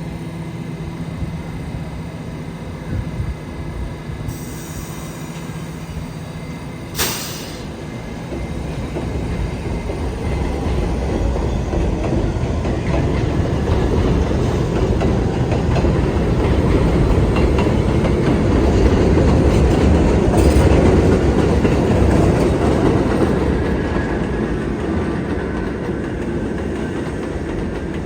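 New York City subway train running through an elevated station, wheels clattering over the rail joints; the rumble builds from about eight seconds in, is loudest around twenty seconds, then eases off. A short, sharp, high burst sounds about seven seconds in.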